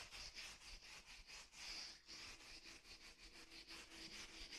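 Steel wire brush scrubbing brick masonry in quick, even strokes, cleaning the brick surface; faint.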